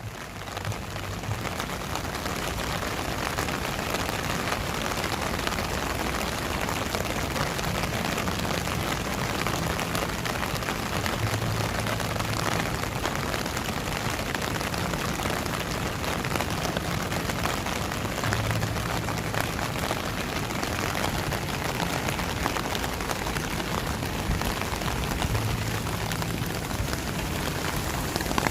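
Steady rain falling, fading in over the first second or two, with a low hum coming and going underneath.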